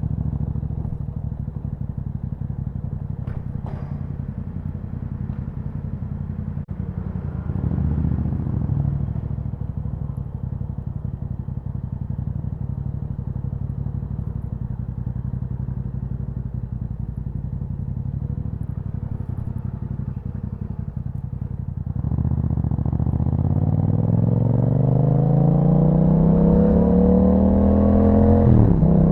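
A 2021 Yamaha MT-07's parallel-twin engine through an Akrapovic exhaust, running at low, steady revs with a brief swell of revs about eight seconds in. From about 22 seconds it accelerates, the note rising steadily in pitch, then drops sharply near the end as it shifts up a gear.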